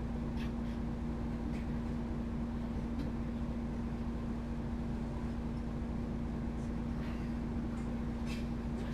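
Euro 6 diesel engine of a MAN Lions City G articulated bus running steadily with a constant hum and low rumble, with a few faint clicks or rattles, several of them near the end.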